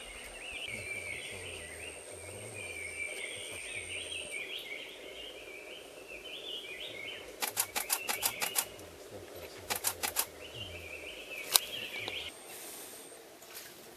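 A songbird calling in a rapid, jumbled chatter, broken by bursts of sharp camera-shutter clicks: a quick run of about six, then four, then one loud single click.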